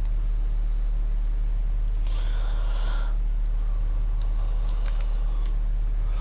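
A steady low electrical hum runs throughout, with a short breathy hiss such as a sniff or exhale about two seconds in and a few faint small clicks of handling after it.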